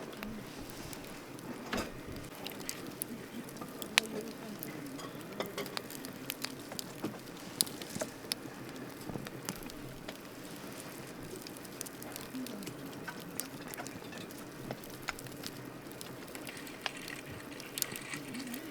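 Wood campfire burning, with irregular crackles and sharp pops over a steady hiss of flame. The loudest pops come about 4 s and 7.5 s in.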